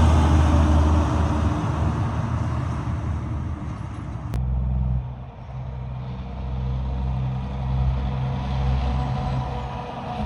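Heavy trucks on the road: a truck's engine and tyres rumbling past and fading away, then, after an abrupt change about four seconds in, another truck's engine running with a steady low note.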